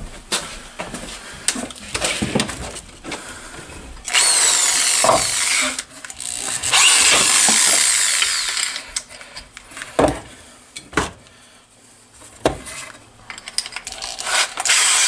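Power drill spinning a worn hole saw in two runs of about two seconds each, starting about four seconds in, with clicks and knocks of handling before, between and after.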